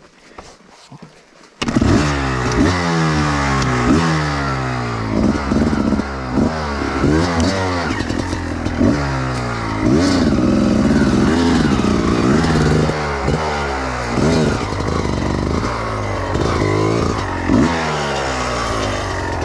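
Enduro motorcycle engine coming in abruptly about a second and a half in, then revved hard over and over, its pitch climbing and dropping again and again under load on an uphill climb, with scattered knocks and clatter.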